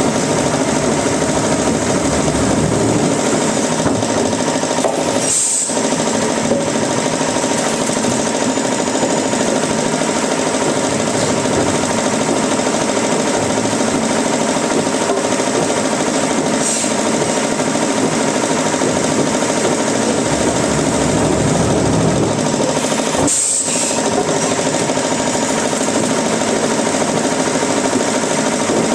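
Sawmill woodworking machinery running steadily, a loud dense mechanical clatter, with a few brief sharp ticks.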